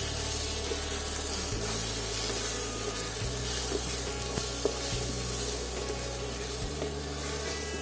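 Chopped onion, tomato and egg sizzling steadily in a frying pan while being stirred with a wooden spatula, with a few faint taps of the spatula on the pan.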